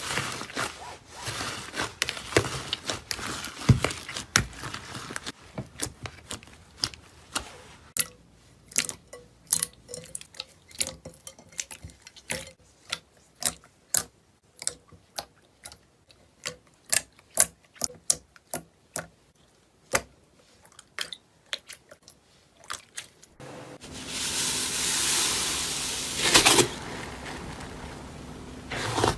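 Close-up crackling and crunching of a soft material squeezed and crushed by hand, then a long run of single sharp clicks and pops at irregular spacing, and near the end a continuous crunching as the material is crushed again.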